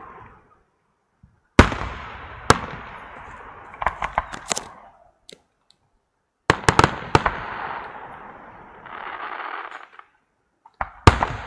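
Fireworks going off in three volleys. Each volley opens with sharp bangs and rolls away in a fading rumble. Quick runs of crackling reports follow the bangs, and a short hissing fizz comes shortly before the last volley.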